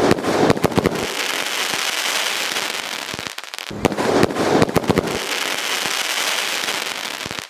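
Two aerial shells from a Cactus Rain crackling sky shot bursting about three and a half seconds apart, each burst a cluster of sharp bangs followed by a few seconds of dense crackling.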